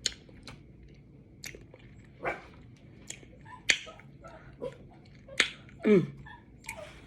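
A dog making a few short yelps or whines, one falling in pitch near the end, among scattered sharp clicks and smacks from eating crab legs.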